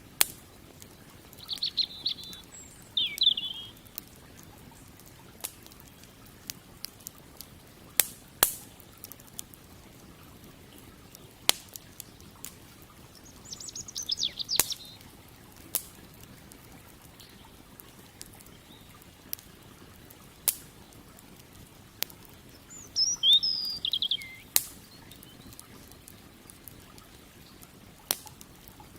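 Campfire crackling with sharp, scattered pops, while a small bird chirps in three short bursts: near the start, midway and about three-quarters through. Under it all is a faint steady low rush from the river.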